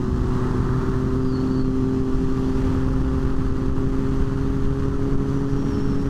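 Motorcycle engine running at a steady speed while riding, with a steady rush of wind and road noise.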